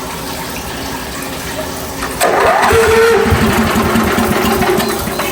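Hotsy steam pressure washer starting up about two seconds in: a sudden loud onset, then steady running with a hum and a pulsing low rumble over the sound of running water, as the machine is coaxed to fire.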